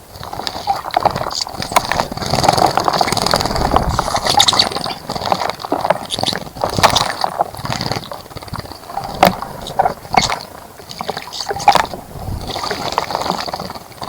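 A bird splashing in a bird bath: water sloshing and spattering in bouts of flicks, with short pauses between them.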